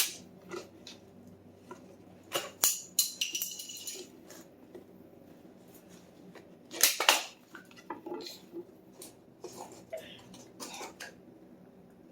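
Scattered clinks, knocks and rattles of hand tools and objects being picked up and set down, with a ringing metallic clatter about three seconds in and the loudest knock about seven seconds in.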